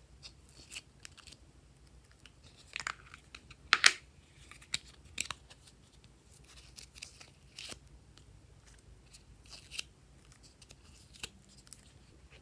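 Slime being handled and pressed, giving scattered sticky clicks and crackling pops, the loudest two close together about four seconds in.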